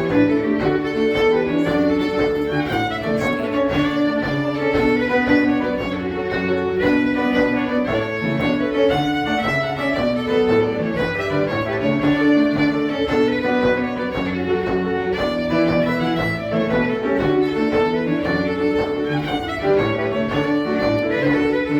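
Cape Breton folk music: a fiddle playing a lively tune of quick, short notes over a lower accompaniment.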